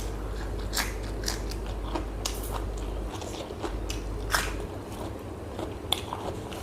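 Close-up eating sounds: a person biting and chewing food, with irregular crisp crunches and clicks.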